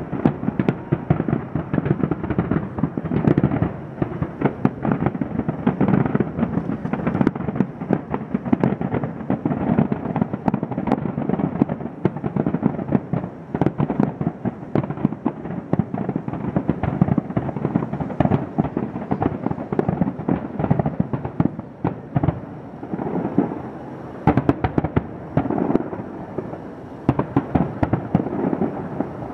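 Fireworks display: a dense, unbroken barrage of bangs and crackles, several a second, with a brief lull about three-quarters of the way through.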